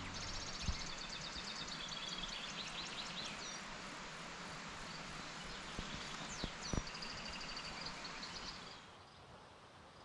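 A songbird singing bursts of rapid, high trilled notes, twice, over a steady outdoor hiss that drops away near the end, with a few short clicks.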